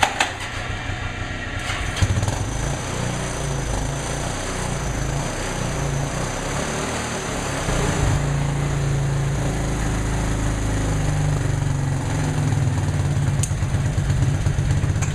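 Small gasoline engine running steadily after a cold start on choke, with a sharp knock about two seconds in; it gets louder about halfway through.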